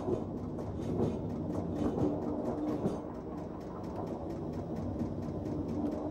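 Train running with a steady rhythmic clickety-clack, about four clicks a second, over a steady low hum.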